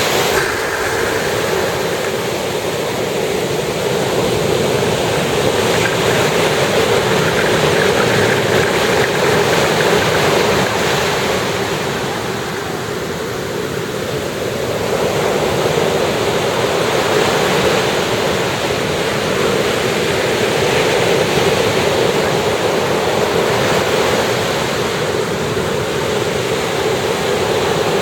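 Surf breaking and washing onto a sandy beach: a steady rush of waves that eases for a few seconds about halfway through, then builds again.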